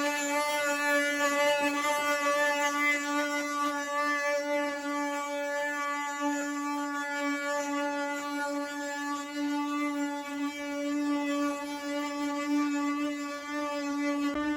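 Wooden ox cart's axle singing: a continuous, steady drone on one held pitch, the traditional 'canto' made by the wooden axle turning in its bearings as the cart is pulled.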